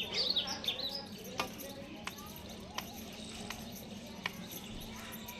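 Small birds chirping in quick bursts near the start, then a few sharp isolated clicks over a steady low hum.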